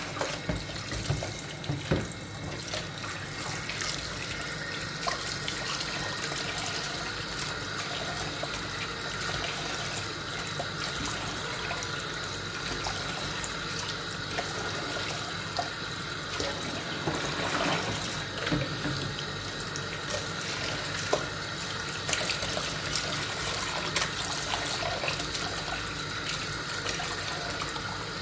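Kitchen tap running into a sink as raw chicken pieces are rinsed and rubbed clean under the water, with a few light knocks of the chicken against the sink.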